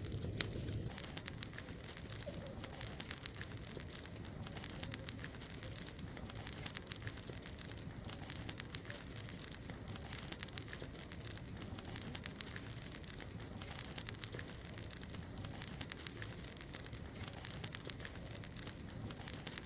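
Wood bonfire crackling with frequent small sharp pops, over a steady faint high-pitched hum.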